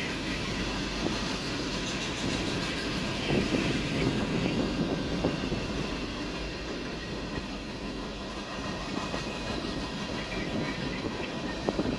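Train cars rolling past with a steady rumble of wheels on rail, and now and then a sharp click as the wheels cross rail joints.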